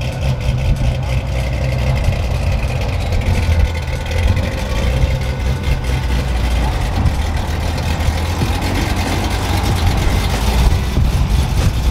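A car engine running steadily with an even low rumble.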